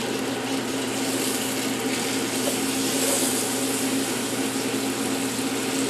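Steady sizzle of liver frying in butter in a pan, over the constant low hum of an electric fan.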